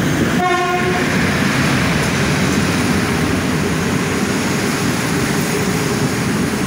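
Passenger train hauled by a Polish EU07 electric locomotive rolling past along the platform: steady rumble and rush of the carriages' wheels on the rails. A brief steady tone sounds about half a second in.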